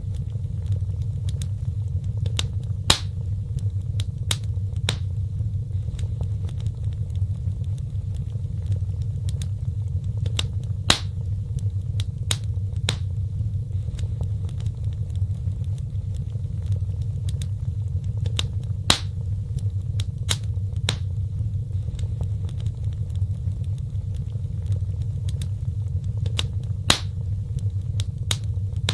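Wood fire burning, with irregular sharp crackles and pops over a steady low rumble of flames. The loudest pops come every eight seconds.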